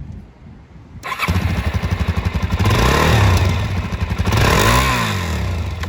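Suzuki DR-Z400S's single-cylinder four-stroke engine starts about a second in. It is blipped up and back down twice, then runs on at a steady idle.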